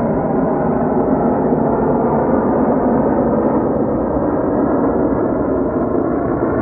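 Loud, steady engine noise from aircraft taking off, likely jets, holding without a break.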